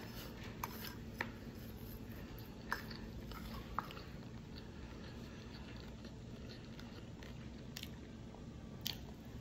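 Close-miked chewing of spaghetti mixed with cassava flour (farinha), with a few short sharp clicks, most of them in the first four seconds and one near the end.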